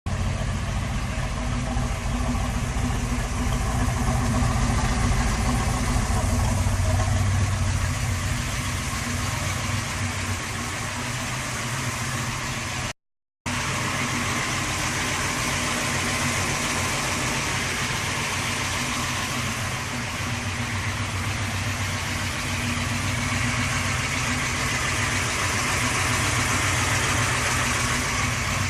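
Pontiac Firebird Trans Am's engine running steadily, with a broad rushing noise over it. The sound drops out completely for a moment about halfway through, then carries on as before.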